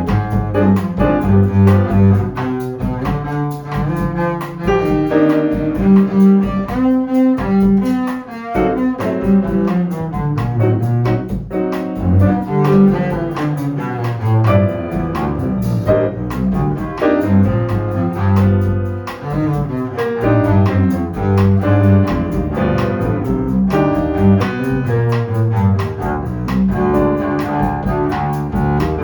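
Jazz ensemble playing an instrumental passage on double bass, piano and drums, with the double bass's moving low line to the fore.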